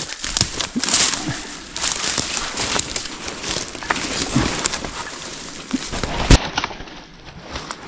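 Footsteps and crackling, snapping brush as a hiker makes his way over an obstacle on the trail, with one sharp knock about six seconds in.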